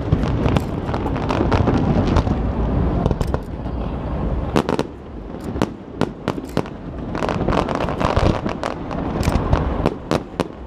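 Aerial fireworks display: a rapid, irregular series of sharp bangs and crackles over a continuous deep rumble of bursting shells.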